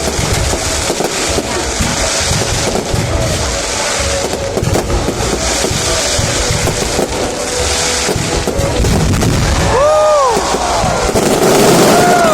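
Fireworks bursting in a dense, continuous run of bangs and crackles, with crowd noise underneath. Near the end come a couple of short whistles that rise and then fall in pitch.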